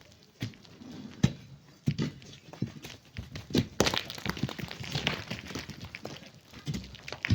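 Irregular knocks and thuds of hand tools digging into sand and stone, with a stretch of gritty scraping near the middle.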